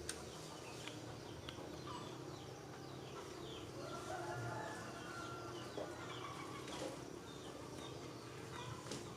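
Small birds giving short high chirps throughout, with a rooster crowing faintly about four seconds in.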